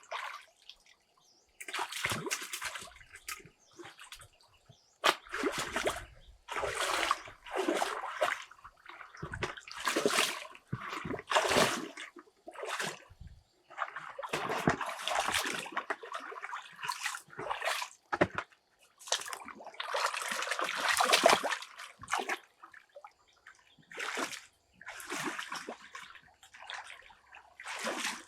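Water splashing and sloshing in short, irregular bursts of a second or two, with brief pauses between them.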